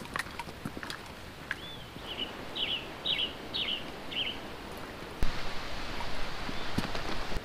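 A songbird sings a short phrase of about six quick, descending chirps, with scattered light clicks and rustles around it. About five seconds in, a sharp click starts a louder, steady rustling hiss.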